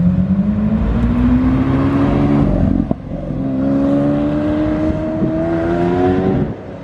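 A car engine accelerating hard, its pitch climbing steadily through one gear. It shifts up about three seconds in, climbs again through the next gear, and lifts off near the end.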